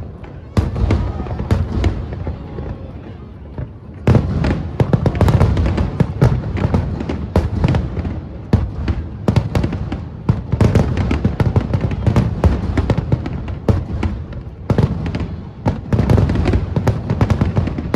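Fireworks shells bursting: a few separate bangs at first, then from about four seconds in a dense barrage of overlapping bangs and crackles.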